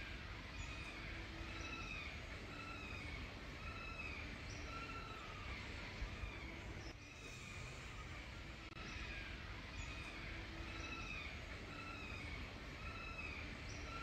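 A bird calling over and over, each call a short arching note about every 0.7 s, over a low steady background rumble. The run of calls repeats about seven seconds in, like a looped recording.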